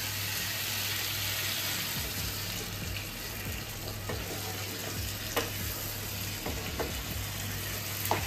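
Potato and pumpkin chunks sizzling in a nonstick kadai while a spatula stirs and turns them, giving a steady sizzle with a few short scrapes and taps of the spatula on the pan. A steady low hum runs underneath.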